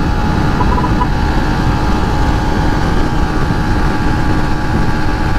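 Yamaha Sniper 150 motorcycle's single-cylinder four-stroke engine, fitted with a racing ECU, running flat out at a steady high speed of about 135 km/h in top gear, its pitch holding level. Heavy wind rush on the microphone lies under the engine.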